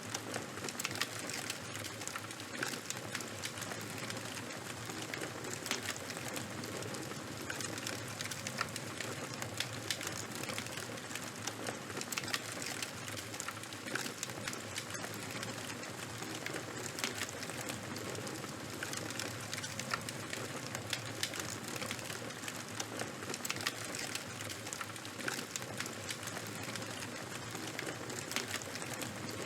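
Fire burning with dense, irregular crackling: many small pops and snaps over a steady hiss.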